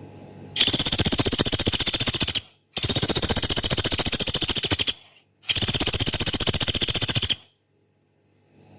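Pelatuk beras, a small pygmy woodpecker, giving three long, rapid, rattling trills of about two seconds each, separated by short pauses. The trills are high-pitched and harsh.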